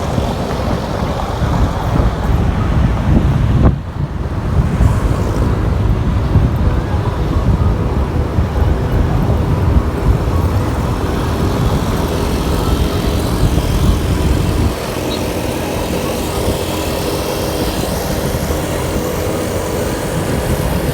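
Motorcycle riding at highway speed: a steady rush of engine and wind noise, heaviest in the low end, with a brief dip about four seconds in and a lighter low rumble from about fifteen seconds in.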